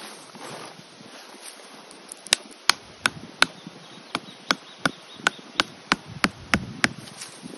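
A run of about a dozen sharp knocks, evenly spaced at roughly three a second, starting about two seconds in and stopping shortly before the end; the first few are the loudest.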